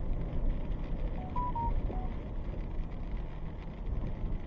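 Steady low rumble with a quick run of four short electronic beeps at differing pitches, about a second in.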